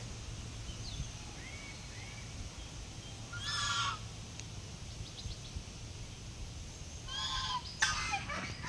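A lone goose-like waterfowl honking, with short calls about three and a half and seven seconds in and louder calls near the end. These are the calls of a bird separated from its flock, searching for it.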